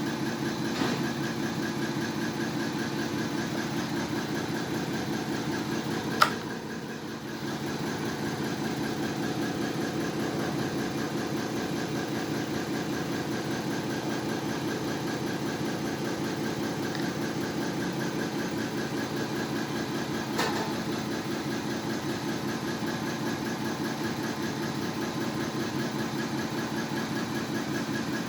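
A hydraulic pump and its drive running steadily with a rhythmic mechanical hum. There is a sharp click about six seconds in, after which the running sound dips briefly, and a smaller knock about twenty seconds in.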